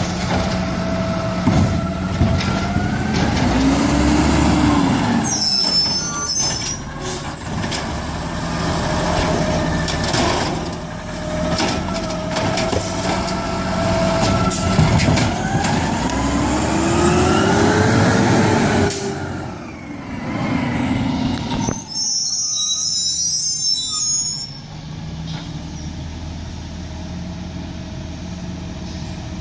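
Garbage truck engine revving up and back down twice, with short air-brake hisses about six seconds in and again near the twenty-two second mark, then settling to a steady idle.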